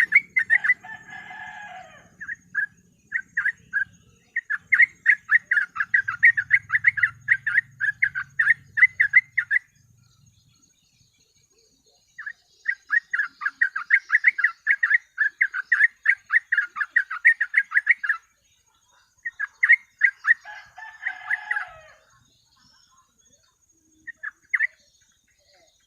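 Yellow-vented bulbul singing its rapid chattering 'ropel' song: two long runs of fast, sharp repeated notes at about five a second, with shorter phrases and a few lower slurred notes between them, broken by short pauses.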